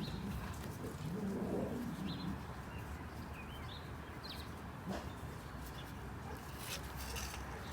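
A dog whining: a low, wavering moan about a second in, then a few faint high squeaks around the middle.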